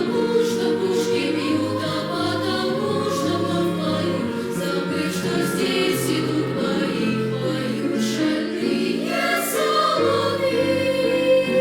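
Children's choir singing in several voices with instrumental accompaniment underneath.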